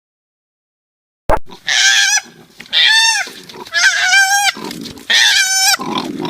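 A farm animal calling four times in loud pitched cries, each about half a second long and rising then falling in pitch, starting after a click about a second in.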